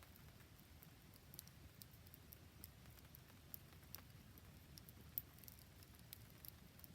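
Faint wood campfire crackling in irregular small pops and ticks, one sharper pop about five seconds in, over a soft steady patter of rain.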